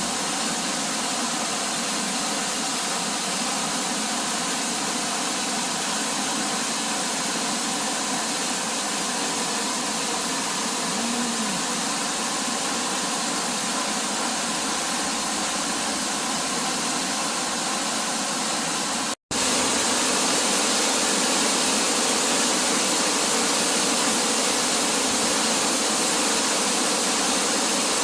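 Waterfall, water falling steadily as an even rushing noise. There is a split-second gap about two-thirds of the way through, after which the rushing is slightly louder.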